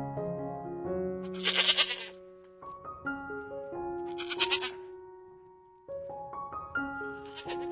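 An animal's harsh, rasping call, three times in a row, over gentle piano music.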